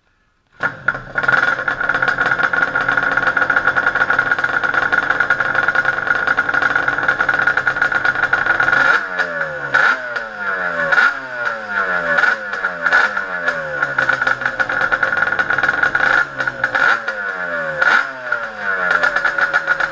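Freshly rebuilt Yamaha Banshee 350's twin-cylinder two-stroke engine, coming in abruptly about half a second in and running steadily. From about halfway it is revved in quick throttle blips, roughly one a second, each falling back to idle.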